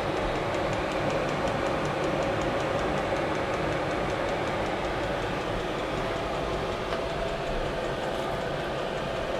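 Chinese diesel air heater running: a steady fan and burner noise with a constant hum and a faint quick ticking.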